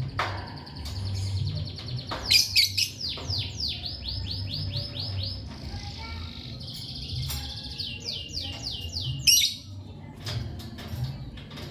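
Lovebirds chirping: two fast runs of short, high, falling chirps, one about two seconds in and another near the end, over a steady low hum.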